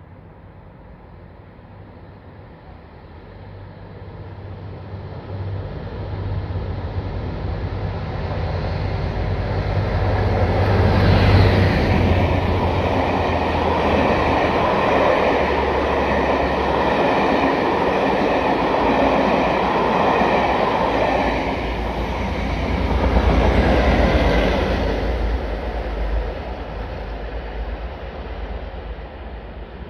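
A train running past on the station tracks: its noise builds over several seconds, stays loud for about fifteen seconds, then fades, with a low steady engine hum underneath.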